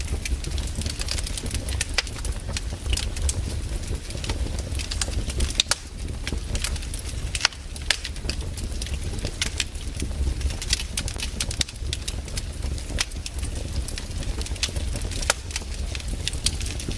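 Wood campfire burning, crackling steadily with frequent sharp snaps and a few louder pops, over a low rumble.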